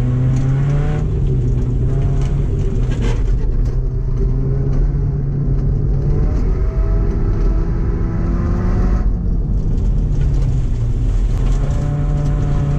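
2007 Subaru Impreza's flat-four boxer engine revving hard under racing load, its pitch climbing and dropping again several times.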